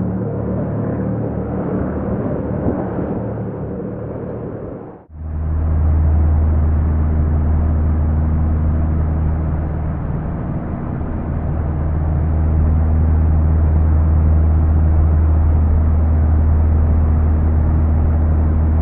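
Steady low rumble of a car driving, heard from inside the cabin. About five seconds in it cuts off and a louder, deeper steady rumble with a low hum takes over.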